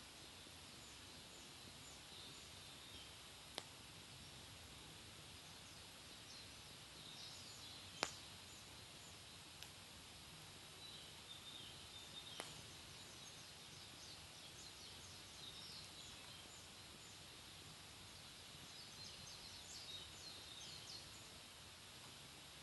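Wood fire burning quietly in a Picogrill 498 fire pit: a faint steady hiss with a few sharp crackles, the loudest about eight seconds in. Faint high twittering comes and goes behind it.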